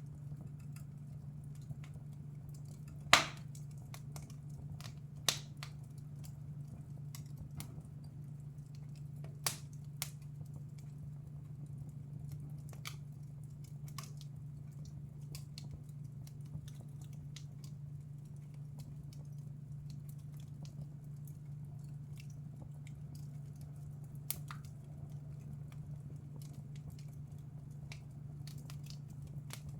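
Fireplace fire crackling: many small scattered crackles with a few loud sharp pops, the loudest about three seconds in and others near five, ten and twenty-four seconds, over a steady low hum.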